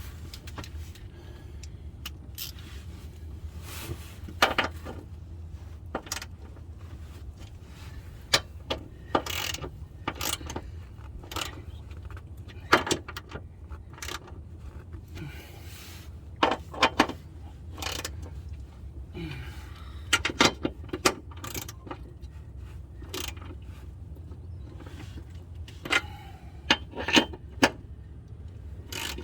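Metal hand tools clinking and a socket wrench working on the crossmember bolts under the car, in irregular sharp clicks and knocks over a steady low hum.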